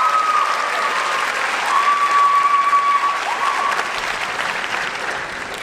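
Audience applauding, with a few held high calls over the clapping, fading away toward the end.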